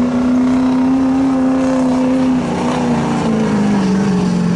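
Duramax turbodiesel pickup engine held at high revs under full load as it drags a pulling sled. Its steady pitch sags gradually lower through the second half as the sled's weight bogs the engine down.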